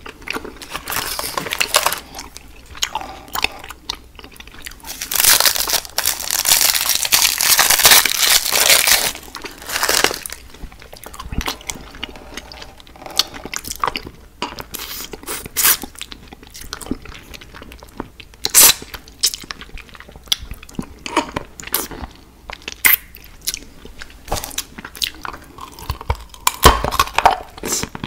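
A person chewing and crunching candy, with a dense run of crunching about five to nine seconds in and single sharp crunches scattered through the rest.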